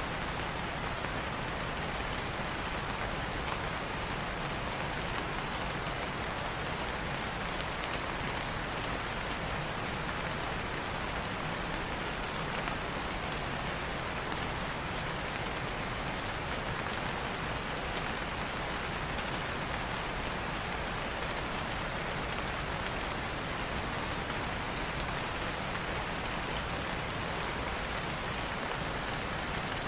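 Steady rain falling on leaves, an even, unbroken hiss. A brief high bird chirp comes three times: near the start, about a third of the way in, and about two thirds in.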